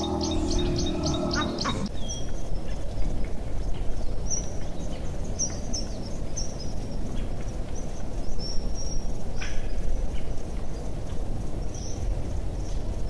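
A steady rushing noise with scattered short, high bird chirps. For the first couple of seconds a low, droning animal-like call with a rapid row of high clicks runs over it, then breaks off.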